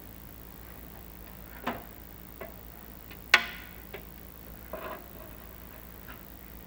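Irregular clicks and knocks from a chimney inspection camera being worked down a clay-tile flue, the loudest a sharp knock about three and a half seconds in, over a steady low hum.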